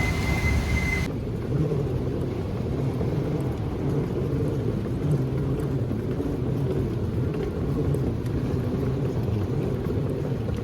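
Steady low rumble. A higher hiss with a faint steady tone over it cuts off abruptly about a second in.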